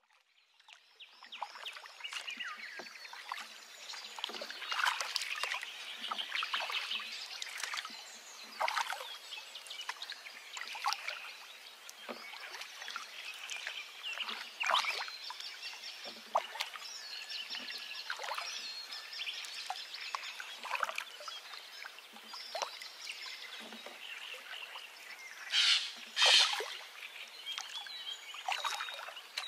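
Birds chirping and calling from several directions in a natural outdoor chorus, with a loud rapid trill about 26 seconds in.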